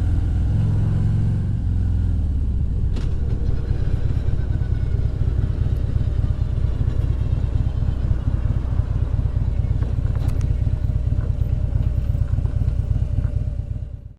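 Motorcycle engine running under way, a heavy low rumble mixed with riding noise, with a clear engine note in the first couple of seconds. The sound fades out just before the end.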